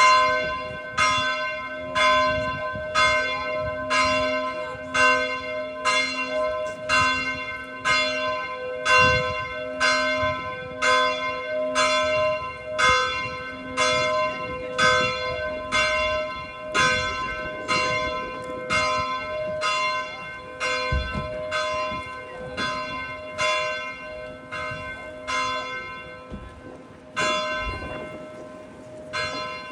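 Church bell ringing in steady repeated strokes, about one a second. Near the end the strokes space out and the ringing dies away.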